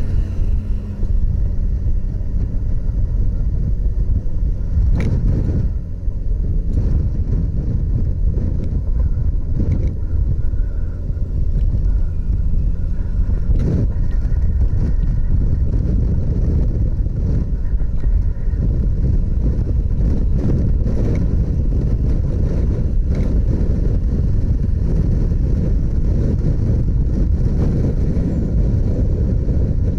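Motorcycle running on the move, a steady low rumble mixed with wind buffeting the microphone, with a few brief knocks.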